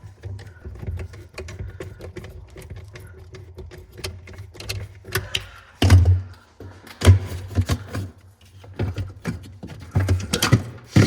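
Clicks, knocks and clatters of freezer parts being handled and moved, with louder thuds about six, seven and ten seconds in, over a steady low hum.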